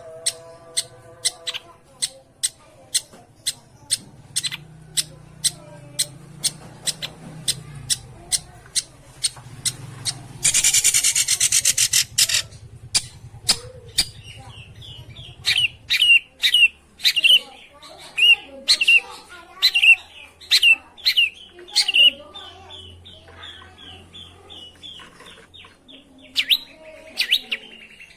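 Long-tailed shrike calls: a run of sharp clicking notes, about two to three a second, then a harsh rasping burst about ten seconds in, followed by a string of scratchy chattering notes that thin out near the end.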